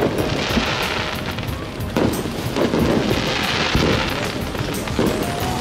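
Aerial fireworks bursting and crackling in quick succession, with two long stretches of dense crackle, over music playing underneath.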